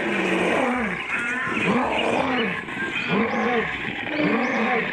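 Recorded lion roar sound effect: a series of roars about one a second, each rising and falling in pitch.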